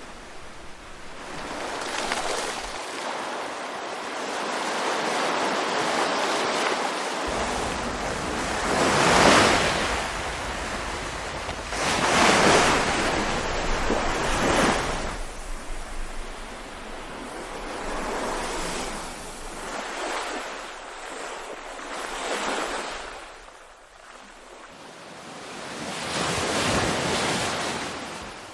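Ocean waves breaking and washing on a shore, swelling and ebbing in slow surges every few seconds, the strongest about a third of the way in and again near the end.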